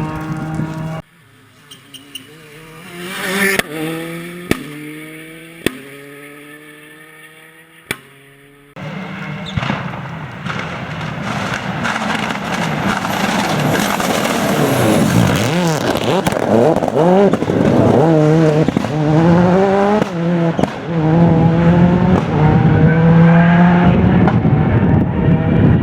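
Skoda Octavia WRC rally car's turbocharged engine revving hard through the gears, with a few sharp bangs from its anti-lag system. It starts distant and jumps to loud about nine seconds in, then runs loud and close through repeated upshifts.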